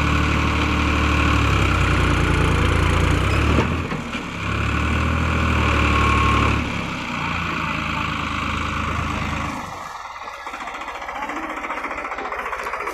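New Holland 3600-2 tractor's diesel engine working hard, easing off briefly about four seconds in and again about seven seconds in before picking up, then dropping to a quieter, lighter run with a fast steady knock about ten seconds in.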